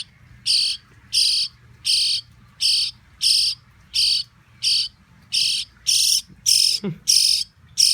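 Rescued baby birds chirping: a steady series of short, shrill, high-pitched calls, about three every two seconds.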